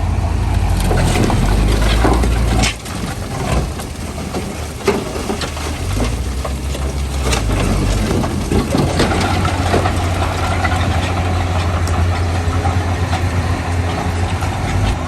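Heavy diesel engine of earthmoving machinery running, dropping in level about a third of the way in and building back up. Scattered sharp knocks and clanks run over it, the sharpest about halfway through.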